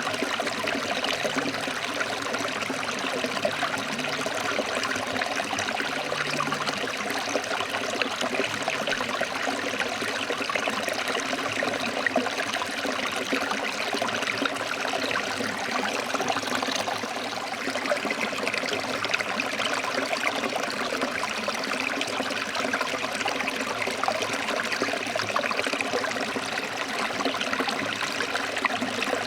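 A forest stream flowing over rocks: a steady, even rush of water.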